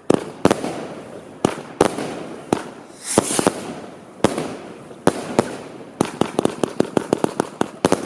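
Fireworks display: sharp bangs of bursting shells every half second or so, with a hissing crackle about three seconds in. From about six seconds on it turns into a rapid volley of bangs, several a second.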